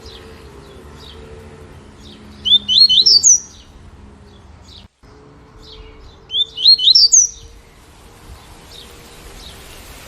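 Double-collared seedeater (coleiro) singing its 'tui-tui' song: two loud, short phrases of quick rising notes about four seconds apart, with faint single chirps between them over a steady soft hiss.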